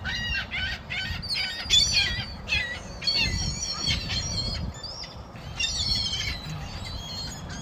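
A flock of seagulls calling in short, repeated squawks, many overlapping, over a low rumble.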